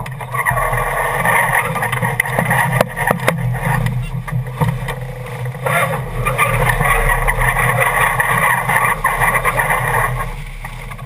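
Steady rushing wind and water noise aboard a sailing yacht under way, with scattered sharp clicks.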